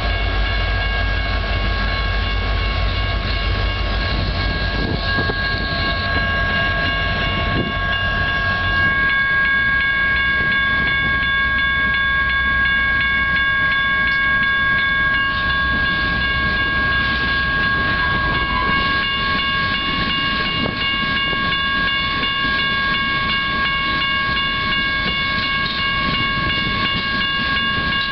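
A freight train passing close by. A diesel locomotive's heavy low rumble fills the first several seconds, then gives way to the lighter rolling of loaded hopper cars over the rails. Steady high ringing tones sound over the train throughout.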